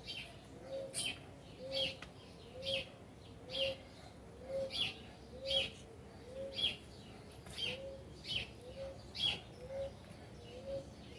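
Birds calling over and over: a short low cooing note about once a second, alternating with short high chirps that fall in pitch.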